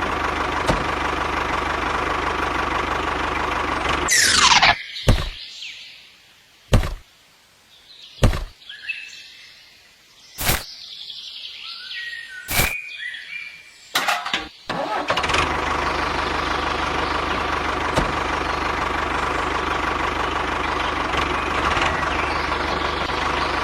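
A small motor runs steadily with a constant hum. A little over four seconds in it breaks off with a quick falling swoosh. About ten seconds of quieter sound follow, with half a dozen sharp knocks, before the steady motor sound comes back about fifteen seconds in.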